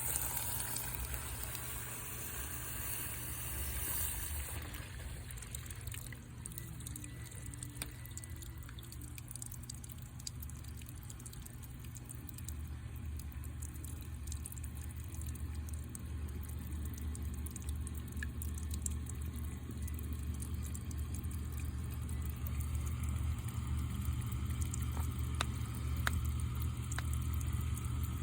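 Sump pump running with a steady low hum while water splashes and pours in the pit. The hum grows louder in the second half.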